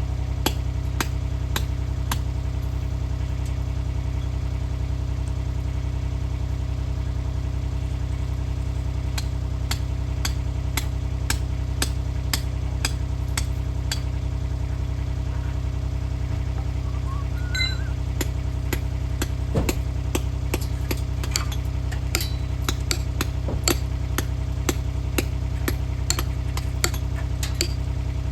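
An engine running steadily at idle, with irregular sharp clicks and knocks over it throughout.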